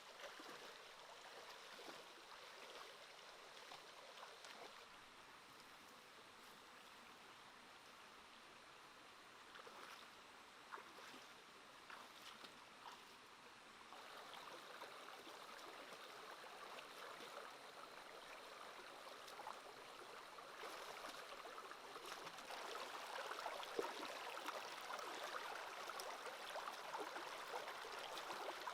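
Faint running water of a shallow stream, trickling steadily, with scattered small clicks. It grows louder partway through and again near the end.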